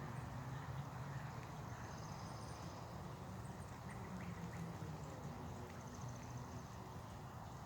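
Faint outdoor ambience: a steady low rumble with two short, high-pitched trilling chirps from small birds, one about two seconds in and another near the end.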